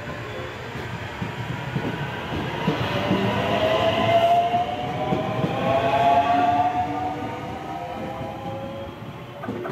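Local electric train running past with wheel rumble and clicks over the rail joints. Its motor whine climbs slowly in pitch as it gathers speed. The sound is loudest about four to six seconds in, then fades.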